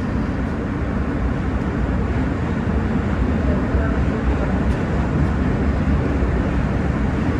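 New York City subway car running between stations, heard from inside: a steady, loud rumble of wheels and motors on the track.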